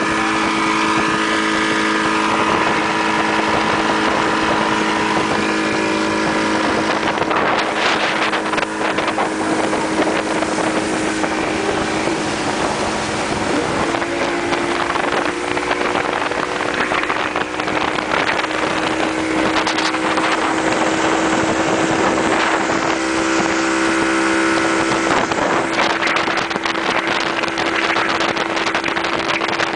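Motorboat engine running steadily under way, with wind buffeting the microphone and rushing water. About halfway through, the engine note steps up slightly as the throttle is opened a little.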